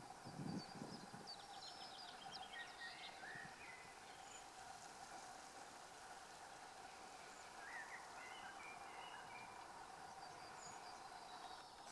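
Faint outdoor ambience: distant birds chirping and trilling in a few short phrases over a steady low hum, with a soft low bump about half a second in.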